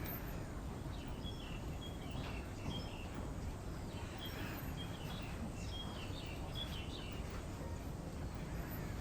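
Small birds chirping in short, high notes, in two runs through the middle, over a steady low background noise.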